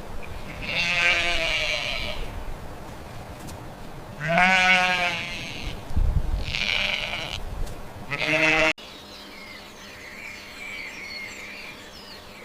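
Sheep bleating: about four wavering calls, some deep and some high, over the first nine seconds. Then the sound cuts abruptly to a quieter background.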